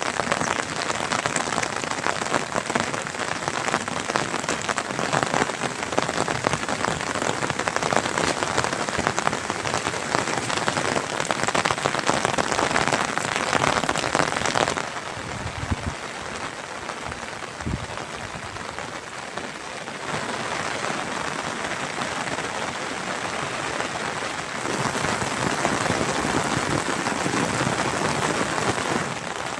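Rain falling steadily, a dense patter of drops hitting surfaces. It becomes somewhat quieter about fifteen seconds in and louder again about twenty-five seconds in.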